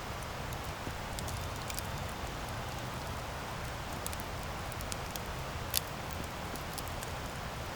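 Campfire burning: a steady low rush under scattered sharp crackles and pops, with one louder pop about three quarters of the way in.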